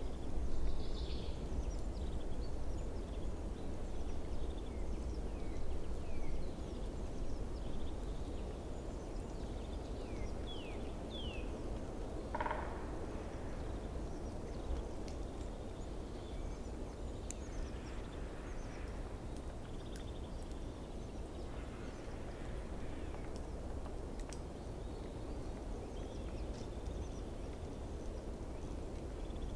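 Outdoor nature ambience: steady low background noise with scattered faint bird chirps and short calls, one clearer call about twelve seconds in.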